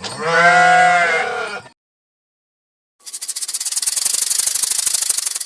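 One long bleat from a sheep or goat-like farm animal, about a second and a half, cut off abruptly. About three seconds in, a different sound starts: a fast, even, rasping rattle that runs on for nearly three seconds.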